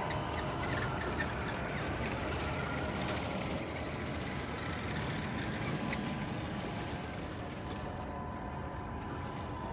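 Tamiya 1/14 Scania radio-controlled truck running, a steady mechanical hum with faint high-pitched motor whine rising and falling as it changes speed.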